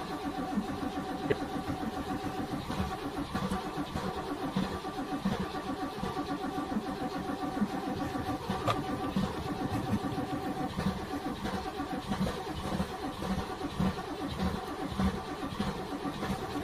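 NASCAR stock car's V8 engine idling with an uneven, loping rhythm.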